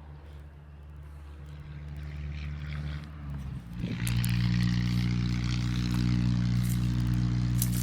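A motor engine running with a steady, even hum. It grows louder and steps up sharply about four seconds in, then holds steady.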